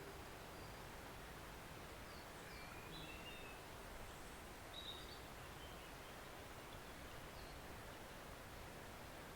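Small forest stream flowing steadily, heard quietly, with a few short bird chirps in the middle.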